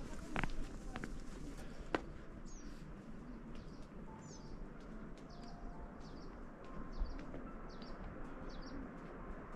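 A small songbird calling with short, high chirps, some sliding downward, repeated about twice a second from about two and a half seconds in, over steady background noise. A couple of sharp knocks come in the first two seconds.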